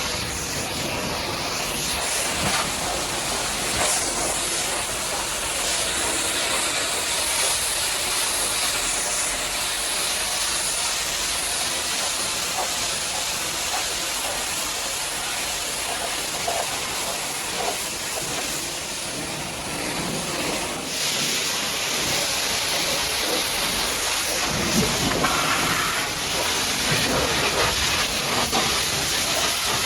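High-pressure washer jet spraying water against a muddy truck: a steady, loud hiss whose tone changes about two-thirds of the way through.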